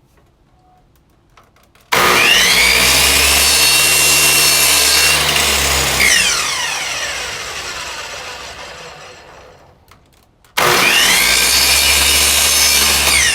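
Electric miter saw switched on with a rising whine, running for about four seconds while taking a light cut in wood, then switched off and winding down with a long falling whine. Near the end it is started again and shut off, beginning another wind-down.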